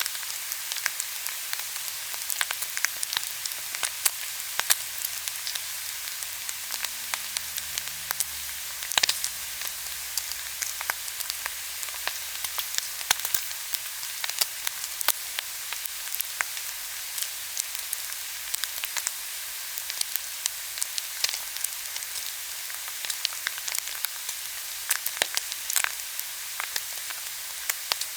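Pork belly sizzling on a hot grill: a steady hiss with frequent sharp pops and crackles of spitting fat.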